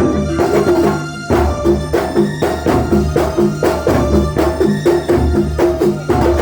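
Kuntulan ensemble playing Banyuwangi folk music: drums and frame drums strike a fast, regular rhythm over sustained melodic notes, with a brief drop in level about a second in.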